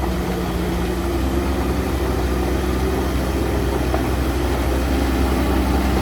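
Heavy diesel engine running steadily, a low drone that grows slightly louder.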